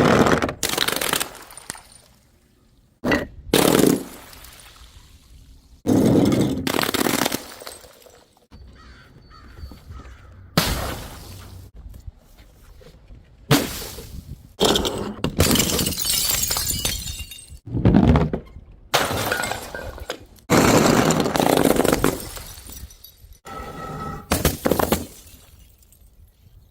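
Glass bottles smashing one after another: more than a dozen sudden shattering crashes, each dying away before the next, a few seconds apart.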